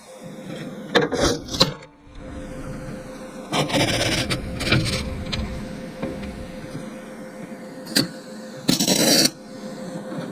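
Arc welding in short bursts, four or so tacks each lasting under a second to about a second and a half, with a crackling hiss, as a nut is welded into a hole in a steel truck bed. A steady hum runs underneath.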